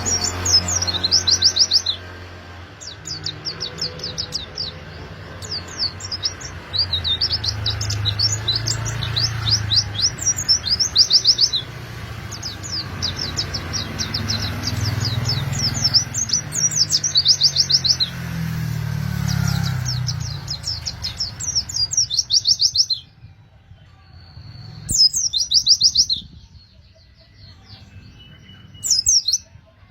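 White-eye (pleci) singing 'gacor': fast rolling runs of high 'cuit cuit' chirps, repeated in bursts with short breaks. A low hum lies under the song and stops about two-thirds of the way through.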